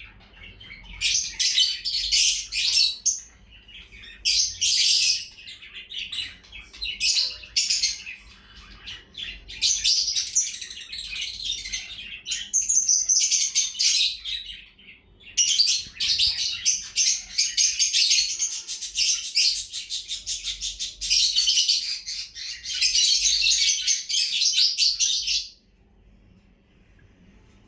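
Lovebirds chirping and chattering shrilly in quick bursts, many calls overlapping, cutting off suddenly near the end.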